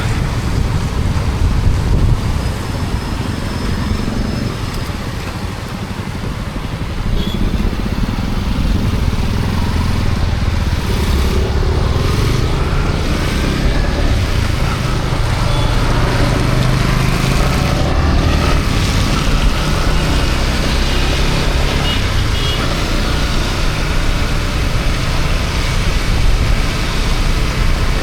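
Yamaha MT-15's single-cylinder engine running under way, mixed with wind on the microphone and tyre and rain noise from wet roads. The ride eases off about five seconds in, then picks up speed again.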